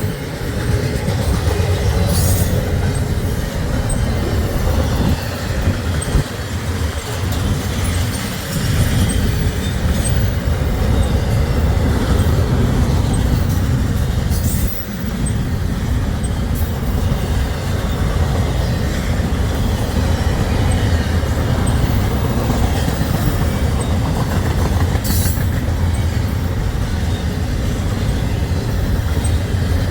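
Norfolk Southern freight train rolling past: a steady, loud rumble of wheels on rail, with a few sharp metallic clanks now and then.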